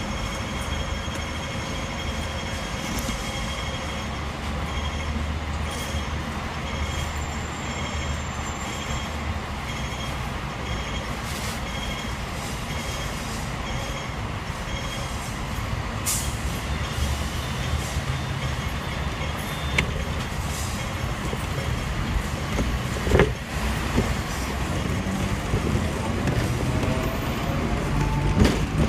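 Hong Kong tram running along its street track with a steady rumble of wheels on rail, with a few sharp knocks about halfway through and near the end.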